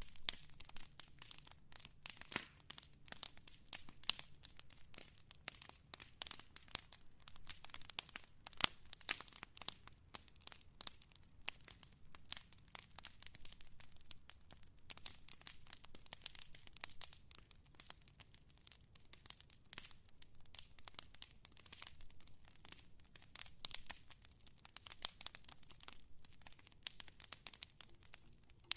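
Wood fire crackling: a dense, irregular stream of sharp pops and snaps over a faint low rumble.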